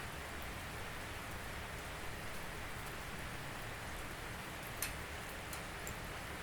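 Steady rain falling, with a few separate sharp drips, the loudest about five seconds in.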